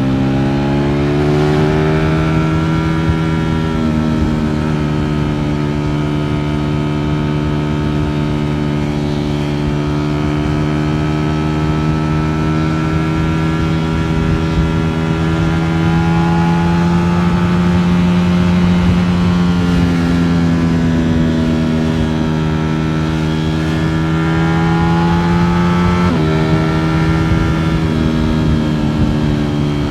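Ducati Streetfighter V4 S's V4 engine running at low, moderate revs while riding, its pitch drifting slowly up and down, with a sudden step in pitch about 26 seconds in.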